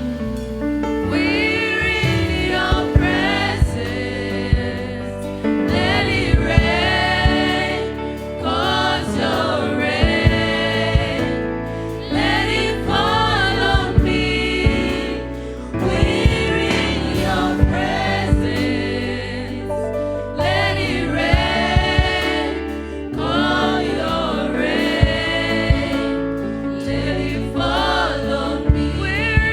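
Church worship team singing a gospel song in several voices, over a band with sustained chords and bass and sharp beats.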